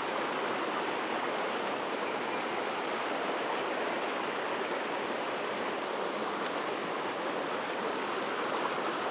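Mountain stream water rushing steadily over rocks, with one faint click about six and a half seconds in.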